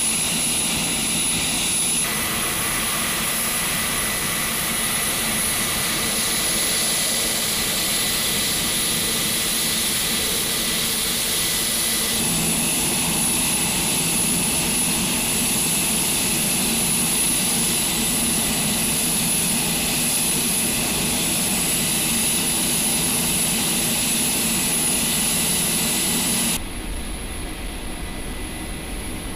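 HC-130J's Rolls-Royce AE 2100D3 turboprop engines running on the ground, a loud steady engine noise with a high, constant turbine whine. The sound shifts abruptly a few times and drops noticeably in loudness near the end.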